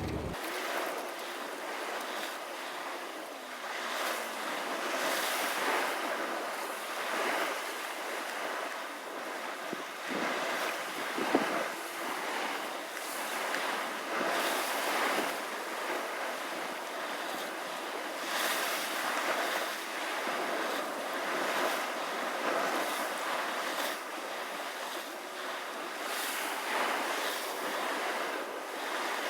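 Sea surf washing in and out, swelling every second or two, with wind on the microphone. A brief sharp knock about eleven seconds in.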